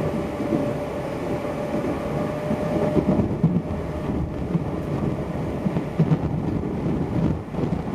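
Nankai Koya Line local electric train running, heard from inside the carriage: a steady rumble of wheels on the rails with irregular knocks, and a thin whine that fades out about three seconds in.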